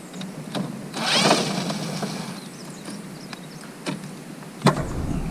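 A cordless drill-driver whines briefly about a second in, backing out a screw, followed by light clicks and a sharp knock near the end as the circuit board is worked loose.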